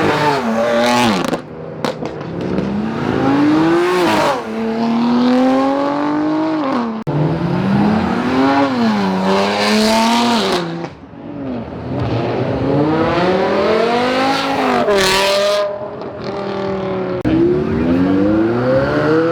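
Performance cars accelerating hard past, one after another. Each engine climbs in pitch through the revs and drops sharply at the gear changes, with loud exhaust noise.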